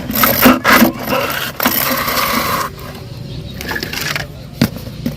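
Plastic toys being handled, with clattering, scraping and sharp clicks. A loud scraping stretch stops suddenly about two and a half seconds in, and scattered clicks follow.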